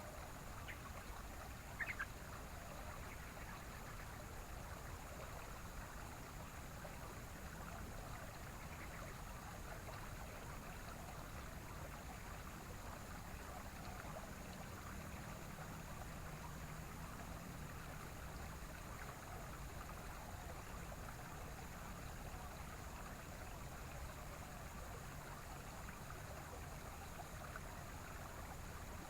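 Steady outdoor background hiss with no strong birdsong, broken by a single sharp click about two seconds in and a faint short bird call near nine seconds.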